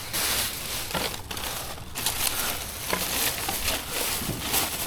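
Plastic bag crinkling and rustling as items are rummaged through and pulled out of it, with small clicks and crackles throughout.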